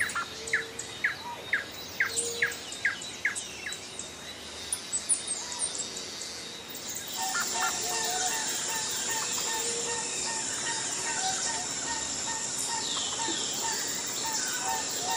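A bird calling a quick series of short chirps, about two a second, for the first few seconds. About seven seconds in, background music with a regular beat comes in and carries on.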